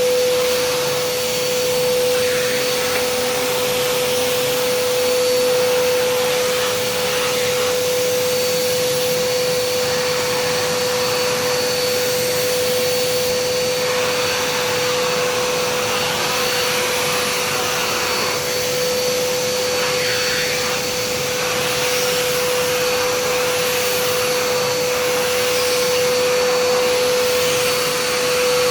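Kärcher SE 4001 spray-extraction vacuum running in dry-vacuum mode, a steady motor whine over the rush of air. The airflow sound shifts every few seconds as the nozzle is worked over a floor mat.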